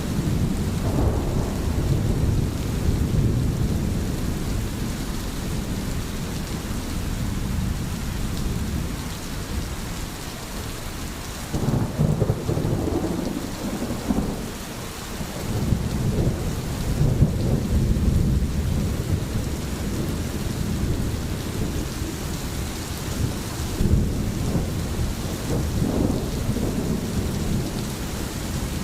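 Steady rain with low rolling thunder, the rumble swelling and fading several times.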